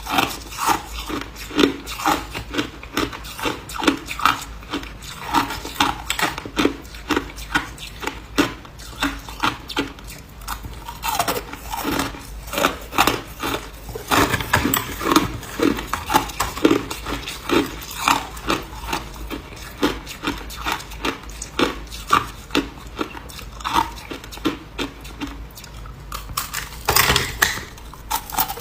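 Close-up chewing of ice cubes: a steady run of sharp, crisp crunches as the ice is bitten and broken between the teeth, about one or two a second, with a louder cluster near the end.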